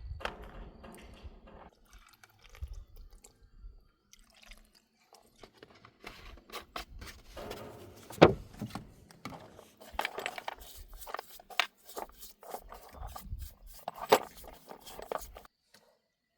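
Irregular clicks, knocks and scrapes of hand work on parts, busiest in the second half, with two sharper knocks about eight and fourteen seconds in; it cuts off suddenly near the end.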